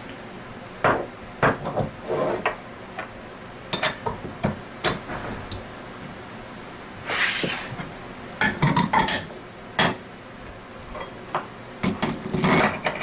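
Metal parts and hand tools clinking and tapping on a workbench as a needle bearing is fitted into an Anest Iwata ISP250 scroll pump: irregular sharp clicks and knocks, with a brief rustle about halfway through.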